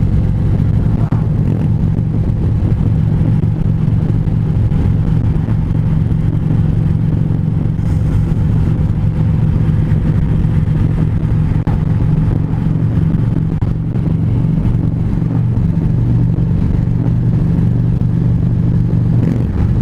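Harley-Davidson V-twin motorcycle engine running steadily at cruising speed, its pitch holding even, with a steady rush of wind and road noise.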